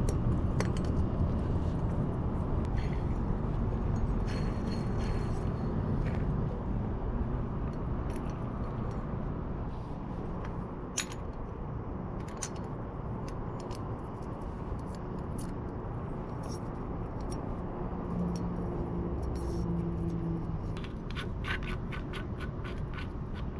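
Small metal engine parts clinking, clicking and scraping as a pit bike engine's cylinder head is handled and assembled, over a steady low background noise. The clicks come scattered, with a cluster near the end.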